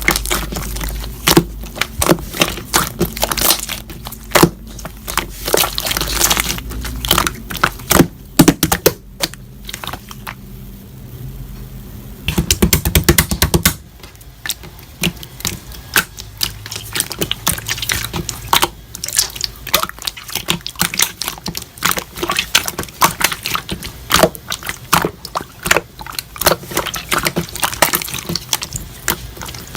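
Slime being squished and pressed by hand, making irregular wet clicks and pops, with a dense run of rapid crackling a little before halfway through.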